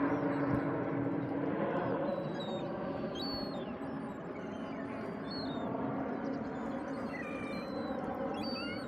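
Waterbirds calling together in a dense chatter, with short high chirps of smaller birds over it. A steady low hum fades out in the first two seconds.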